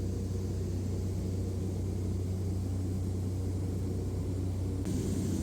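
Steady drone of a light aircraft's engine and propeller heard inside the cabin, with a low, even hum. About five seconds in, the sound changes abruptly and more hiss comes in.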